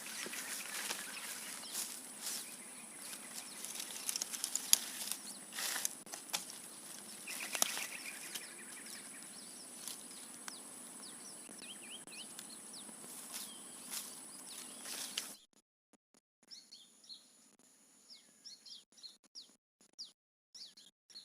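Outdoor ambience with a steady high-pitched whine, scattered clicks and knocks, and short bird chirps. About fifteen seconds in the level drops suddenly, leaving faint chirps and clicks.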